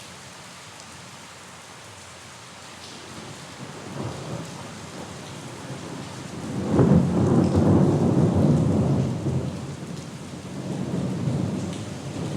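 Steady rain with a roll of thunder: a first rumble about four seconds in, the loudest rumbling from about seven to nine seconds, then a smaller swell near the end.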